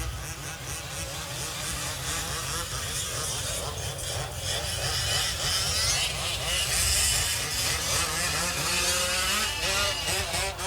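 Several 1/5-scale RC off-road trucks' small two-stroke petrol engines racing, their pitch rising and falling as they rev and back off around the track.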